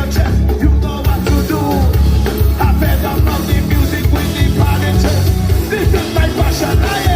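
A rock band playing live, with drum kit, bass and singing over a steady driving beat.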